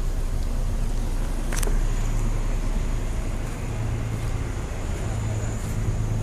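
Steady low rumble of outdoor background noise, with a single sharp click about a second and a half in.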